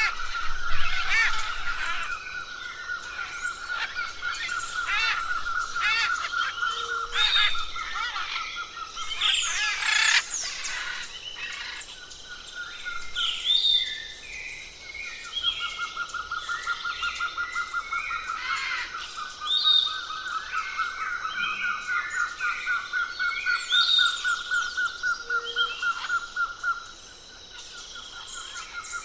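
Several forest birds calling at once with short whistles and chirps. A steady, rapid trill at one pitch runs underneath, breaking off for a moment about halfway through.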